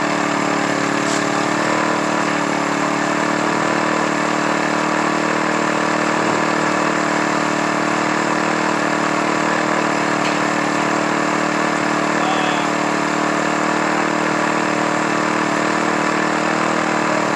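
Small engine running steadily at a constant idle, with no change in speed.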